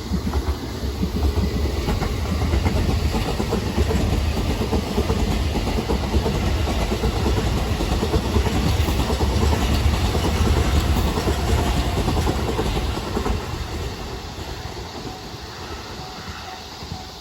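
E657-series limited express electric train passing close by at speed: a loud rush of wheels and running gear on the rails that holds from about a second in and fades over the last few seconds as the train goes away.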